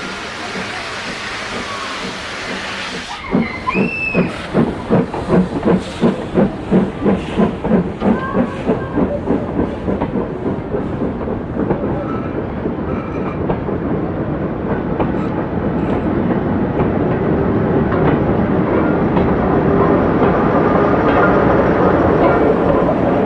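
Steam locomotive hissing steam, then setting off with loud exhaust beats about two a second that quicken and blend into continuous running noise, with brief squeals from the wheels.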